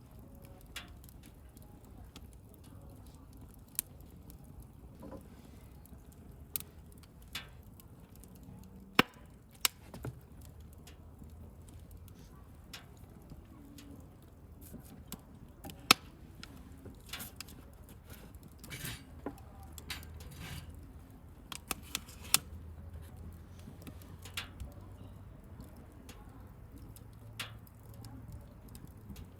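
Wood fire crackling: irregular sharp pops and snaps of burning wood over a low, steady background of the flames, with a few much louder pops.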